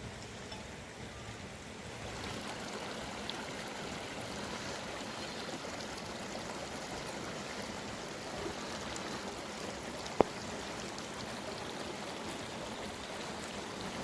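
Steady rushing water that gets a little louder about two seconds in, with a single sharp click about ten seconds in.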